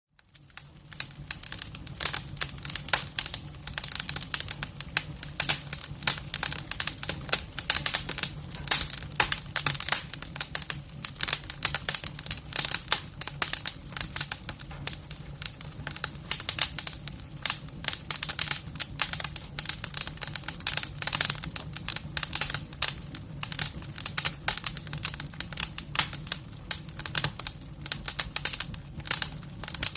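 Firewood burning in a fireplace, crackling and popping in dense, irregular snaps, with a steady low hum underneath.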